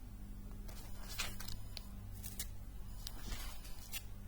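Paper rustling as old handbooks are handled and their pages leafed through: several short, soft swishes over a steady low hum.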